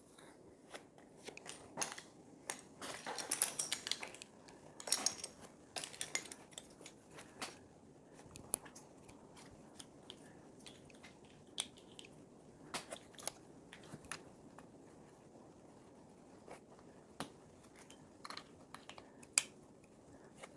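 LEGO plastic pieces being handled and snapped together: rustling and rummaging among the pieces for the first several seconds, then scattered sharp plastic clicks.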